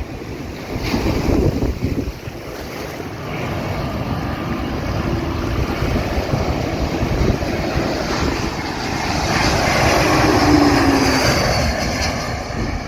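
Wind buffeting the microphone over beach surf, while an engine sound swells to a peak about ten seconds in and drops in pitch as it passes.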